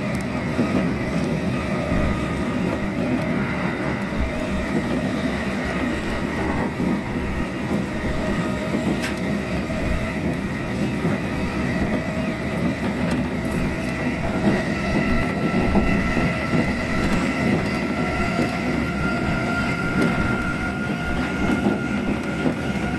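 Running noise heard from inside a moving electric commuter train carriage: a steady rumble of wheels on rail. Over it runs a whine whose pitch rises slightly in the second half.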